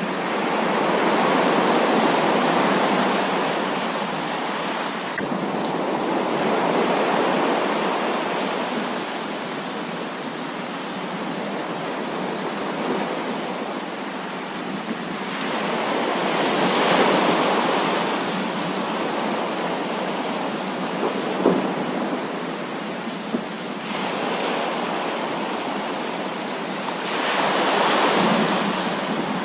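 Heavy rain falling steadily, with rolling swells of thunder that rise and fade every several seconds. Two sharp ticks come about two-thirds of the way through.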